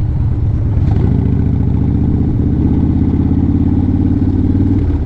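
A motor vehicle's engine running close by, a steady low drone with a fast even pulse that grows a little fuller from about a second and a half in.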